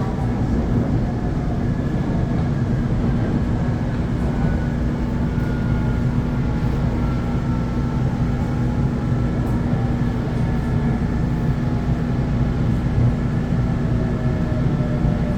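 Electric commuter train running, a steady low rumble with a steady hum and a faint electric motor whine that slowly falls in pitch.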